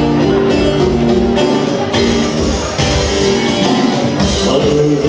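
Instrumental passage of a live Turkish folk song, led by a plucked bağlama (saz) with a beat underneath.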